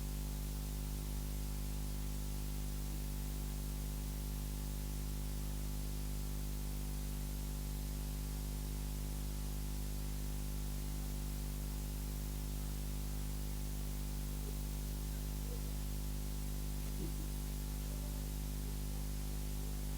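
Steady electrical hum with a buzzy row of overtones over constant hiss, unchanging throughout.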